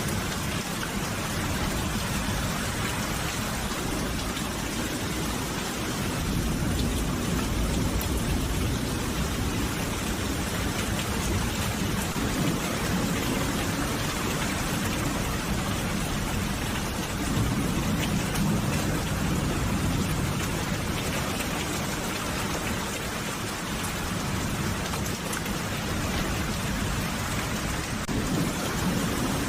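Steady rain falling on a surface, with a low rumble of thunder that builds about six seconds in and swells again near the end.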